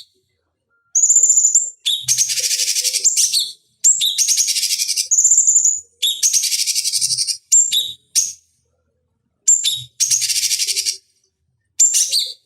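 Cucak cungkok singing: repeated bursts of harsh, rapid chattering, each about a second long, mixed with short high whistled notes, with abrupt silent gaps between bursts.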